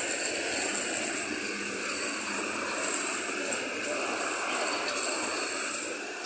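Steady rain falling, an even hiss with a bright high edge and no let-up.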